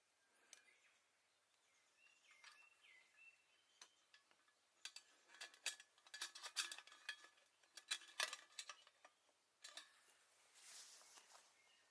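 Steel parts of a Uniflame Fire Grill solo stand clinking and rattling as they are handled and fitted together: a quick run of light metallic clinks and taps in the middle. A short rustling hiss follows near the end.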